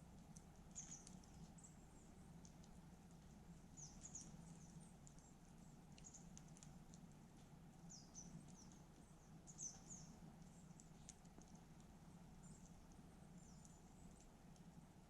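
Faint crackle of a wood campfire: scattered small pops, with many short, high squeaks coming irregularly, some falling in pitch.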